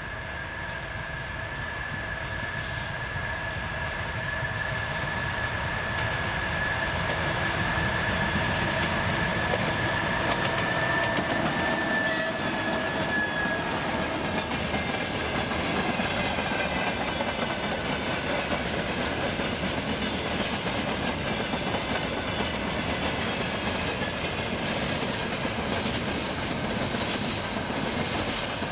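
A train hauled by a 2TE116 diesel locomotive rolling past, growing louder over the first several seconds. Wheels click over the rail joints, with a steady high squeal from the wheels that dips slightly in pitch about halfway through.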